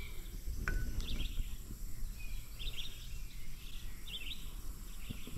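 Birds chirping in short bursts every second or so over a steady low background rumble.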